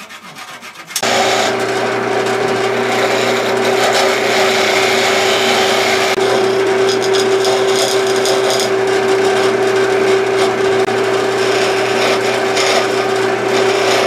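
Small electric power tool starting about a second in and running steadily with a constant motor hum, rasping against wood as it works the piece.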